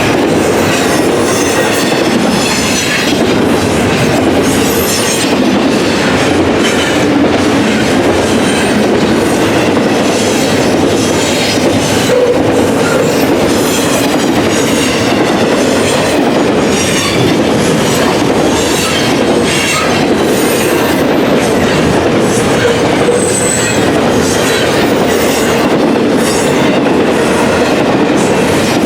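Train rolling past: a steady rumble of steel wheels on the rails with repeated clicks over the rail joints and a high wheel squeal at times.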